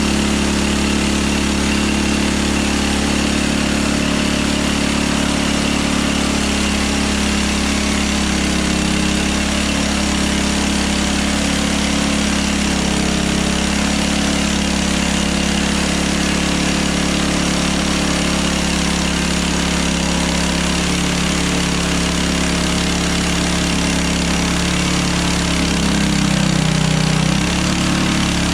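Engine of a Hudson Hunter band sawmill running steadily at a constant speed. Near the end its pitch dips and it gets slightly louder for a moment.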